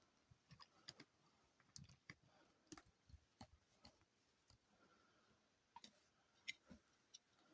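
Faint, irregular clicks and light taps, a few a second, with no machine running.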